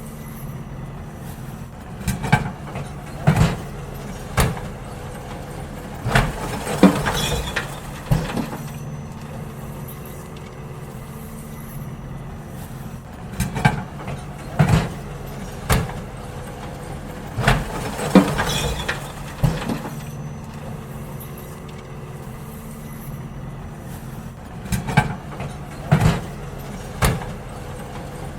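Garbage truck engine running steadily while bins are emptied into it: three clusters of bangs and clatters, about eleven seconds apart, over the hum.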